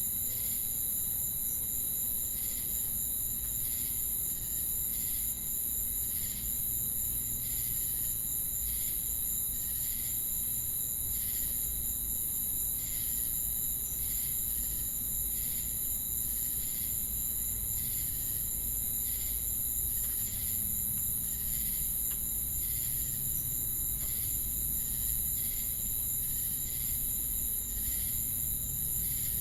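Chorus of crickets and cicadas: a continuous high-pitched trill with steady tones beneath it, and a regular pulsing chirp repeating about once or twice a second.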